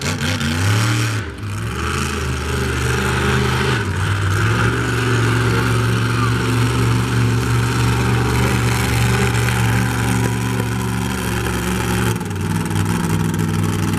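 Monster truck engine running hard under load through a qualifying run, its pitch held steady and then stepping to a new level a few times.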